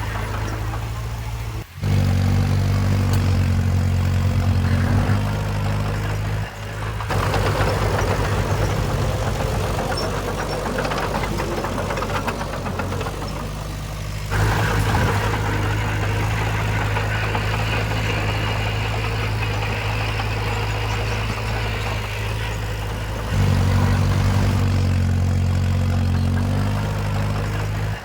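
Diesel engines of heavy earthmoving machinery running steadily, in a string of short clips that cut abruptly from one to the next several times.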